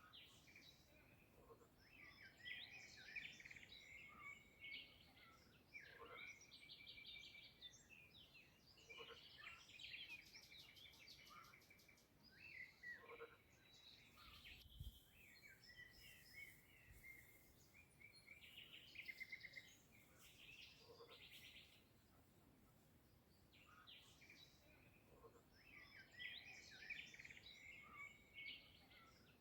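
Songbirds singing faintly, with chirps and fast trills coming in spells a few seconds long and short pauses between them.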